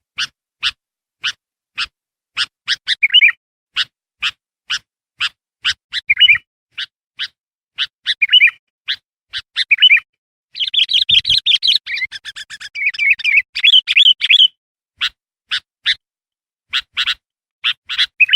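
Sooty-headed bulbul (kutilang) lure calls: sharp chips repeated about twice a second with short warbled phrases between them, and a longer rapid chattering song about halfway through.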